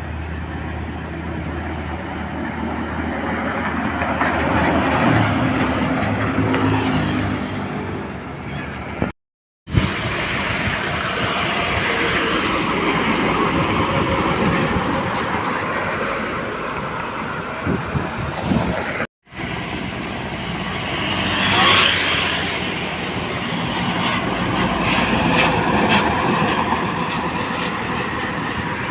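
Heavy trucks driving past on a road: engine drone and tyre noise swelling and fading as each one passes. The sound drops out briefly twice, about nine and nineteen seconds in, where the recording cuts.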